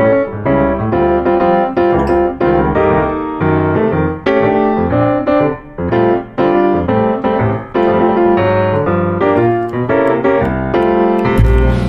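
Background piano music: a melody of struck piano notes over a bass line.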